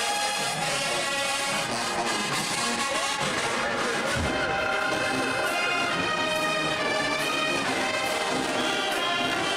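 A marching band's brass section playing sustained, held chords, with the notes shifting every second or so.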